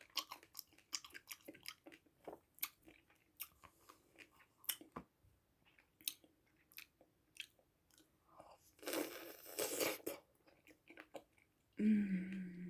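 Close-miked chewing of dry edible clay, with sharp crunchy bites throughout and a longer grinding crunch about nine seconds in. A short hummed 'mm' follows near the end.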